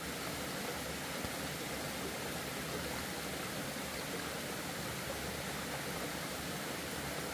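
Steady, even rushing noise that holds at one level throughout, with no separate knocks, tones or rhythm.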